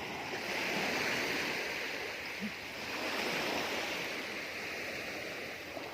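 Surf washing onto a beach, a steady rush of water that swells twice.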